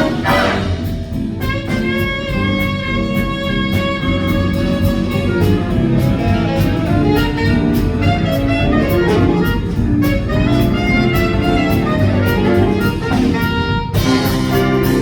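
Big band jazz: horns playing held and moving lines over a steady drum and cymbal beat, with the full band coming back in strongly near the end.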